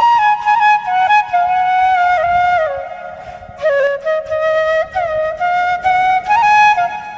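Background music: a solo flute melody with bends between notes, falling over the first few seconds and then slowly climbing back up.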